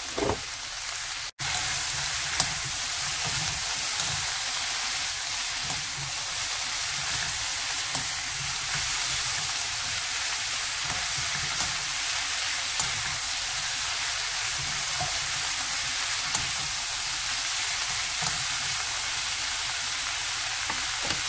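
Oyster mushrooms and sliced vegetables sizzling steadily in a frying pan as they are stir-fried with a wooden spatula, with small scraping ticks now and then. The sound cuts out for an instant about a second in.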